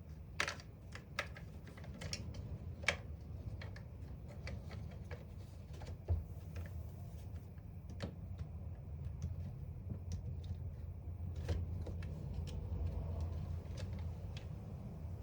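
Irregular small clicks and taps of parts being handled and pressed into a power tool's housing during reassembly, over a steady low hum.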